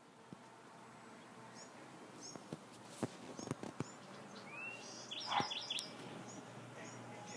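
Small birds chirping: scattered short, high chirps, then a quick run of repeated chirps about five seconds in. A few faint clicks sound among them.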